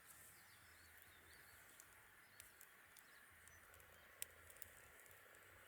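Faint campfire crackle: a few sharp pops from burning wood, the loudest about four seconds in, over a quiet steady hiss. Faint bird chirps come near the start.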